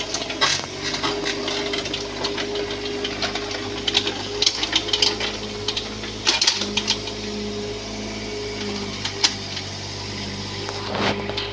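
Bobcat 322 mini excavator running steadily under work, its engine drone carrying a hydraulic whine that comes and goes, with irregular clicks and knocks over it.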